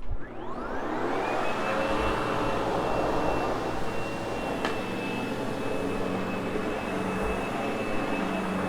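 Sebo X8 upright vacuum cleaner switched on, its motor whine rising over about a second and a half, then running steadily while it post-vacuums carpet. A single click is heard about halfway through.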